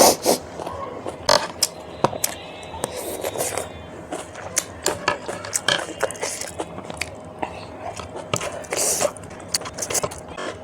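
A person eating close to the microphone: irregular biting and chewing with many short, sharp clicks and smacks.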